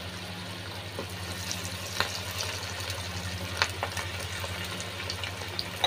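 Besan-coated mutton chops frying in hot oil in a pan: a steady sizzle broken by a few sharp crackles and pops, over a low steady hum.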